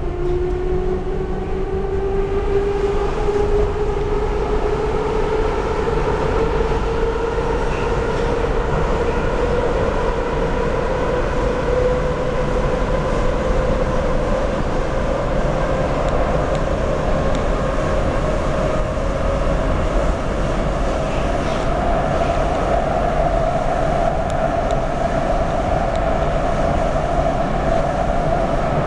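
Budapest M2 metro train accelerating: a motor whine rises steadily in pitch over a steady rumble of wheels on rail, levelling off near the end.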